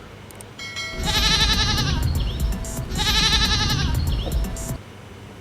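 Goat bleating twice, each call about a second long with a quavering tremble.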